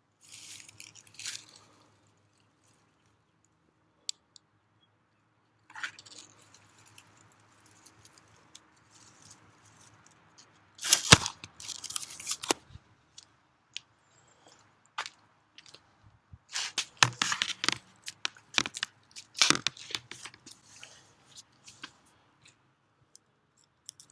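Dry plant tinder (grass and goldenrod flowerheads) crunching and rustling as it is handled, in irregular bursts with two louder spells, one about eleven seconds in and one around seventeen to twenty seconds.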